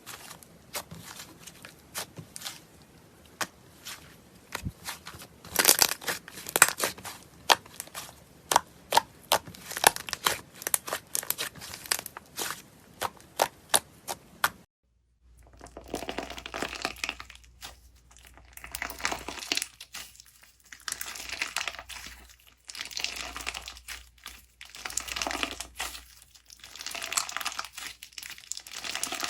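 Slime being worked by hand: first a run of sharp clicks and pops, then, after a short break, crinkly crunching that comes in surges every second or so.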